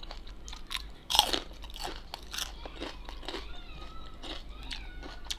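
Close-up crunching and chewing of a garlic clove, the loudest crunch about a second in, then a run of smaller crunches and wet chewing clicks.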